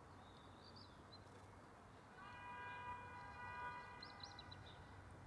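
Very quiet outdoor ambience with a few faint bird chirps. About two seconds in, a faint steady chord of several tones sounds for about two seconds, then fades.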